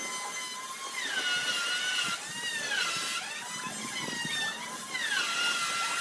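High-speed electric woodworking power tool whining, its pitch dropping and recovering several times as it is loaded in the wood.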